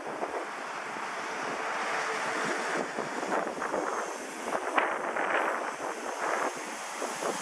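Gusty wind buffeting the microphone in uneven swells, over the faint steady high whine of a Walkera V120D02 micro RC helicopter in flight.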